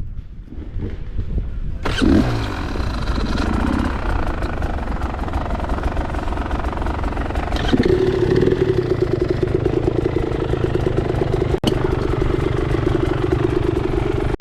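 Dirt bike engine, quiet at first, then revving up sharply about two seconds in and settling into a steady high drone for the second half.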